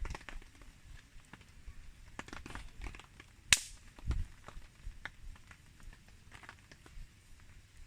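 Wood campfire crackling with scattered small snaps and one loud, sharp pop about three and a half seconds in.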